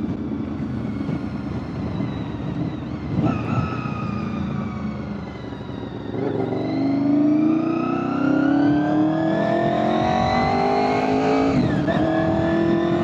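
2001 Honda VFR800FI's V4 engine under way, with wind buffeting the microphone. The engine's pitch falls for the first several seconds as the bike slows, then climbs steadily and grows louder as it accelerates. It dips briefly at a gear change shortly before the end, then climbs again.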